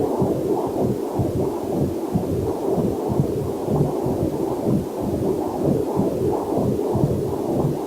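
Whooshing heartbeat picked up by a fetal Doppler monitor: a quick, regular pulse of muffled thumps and swishes, steady throughout.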